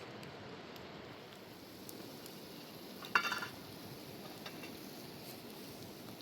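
A steady hiss with one short, sharp clatter about halfway through, and a few faint ticks.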